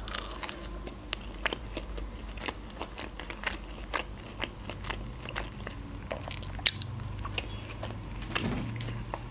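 Close-miked biting and chewing of a breaded chicken nugget with cheese sauce. A bite at the start is followed by a run of small crunches and wet mouth clicks, the sharpest about two-thirds of the way through.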